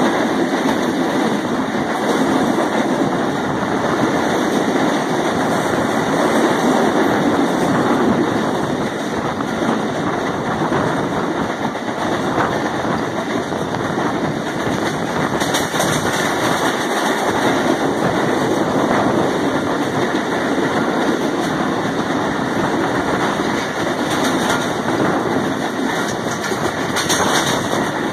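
Passenger train running at speed, heard from an open coach door: a loud, steady rumble of wheels on the track.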